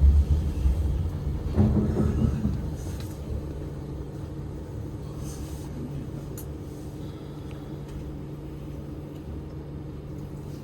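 Moscow monorail car, heard from inside: a low rumble from the rubber-tyred running gear for the first couple of seconds as it comes to a halt, then a steady low electrical hum while the train stands at the station.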